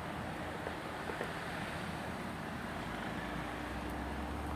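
Steady outdoor background rumble with wind noise on the microphone and a faint steady hum underneath; no distinct event.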